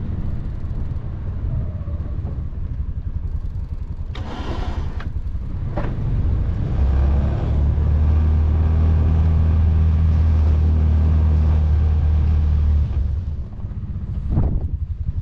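Can-Am Defender side-by-side's engine running under load while plowing snow. It swells to a strong steady drone for several seconds in the middle, with short bursts of noise about four seconds in and near the end.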